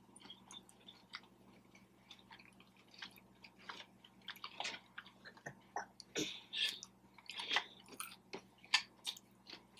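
A person chewing food: irregular, soft mouth noises that become more frequent and louder after the first three seconds or so.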